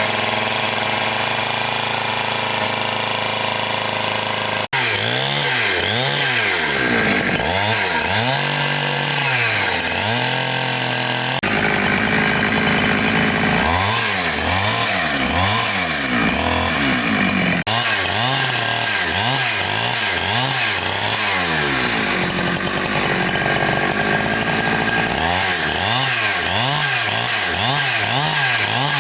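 Chainsaw cutting wood, its engine pitch repeatedly dropping and rising again as the chain bites in and frees. The sound breaks off and resumes abruptly three times.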